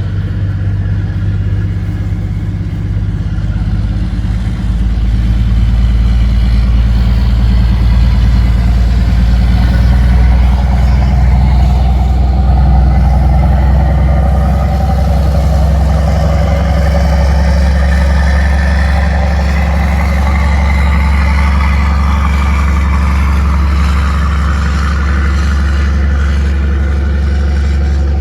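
Express boat's engine running loudly and steadily, rising in level about five seconds in, with its pitch creeping slowly upward later on.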